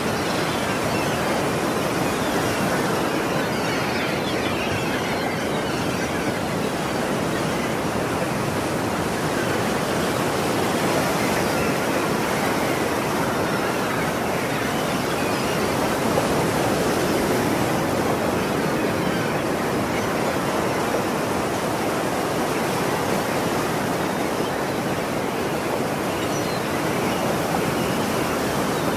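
Ocean surf washing steadily onto a shore: a continuous rushing wash that swells only slightly, with no separate breaking waves standing out.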